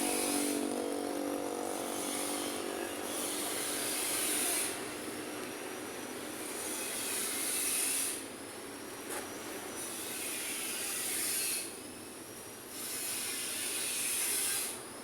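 Street traffic: a passing vehicle's engine fades away during the first three seconds, then road noise with a high hiss that swells and drops several times.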